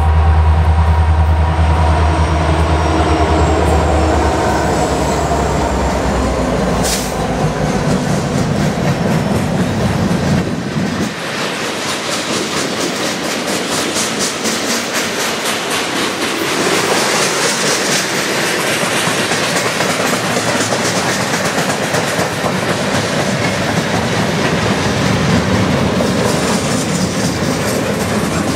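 A CN freight train passing close by. For about the first ten seconds its EMD SD70I and SD60 diesel locomotives go by with a deep, steady engine drone. Then the freight cars roll past with a rhythmic clickety-clack of wheels over the rail joints.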